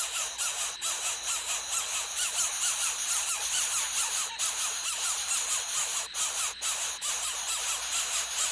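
Birds calling with short chirps, several a second, repeated throughout over a steady high-pitched hiss.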